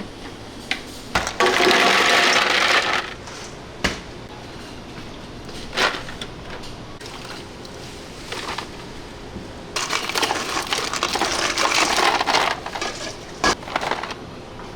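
Kitchen handling noise from food preparation: two stretches of scraping, rustling noise, each a second or more long, with scattered knocks and clicks between.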